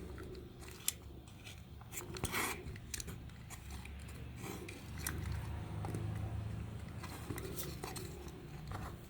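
Hand tools working on small toy parts: scattered sharp clicks, snips and short scrapes, with a low hum in the middle.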